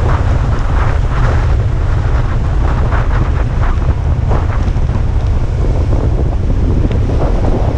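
Strong typhoon wind buffeting a GoPro's microphone: a loud, steady low rumble, with gusts that come and go.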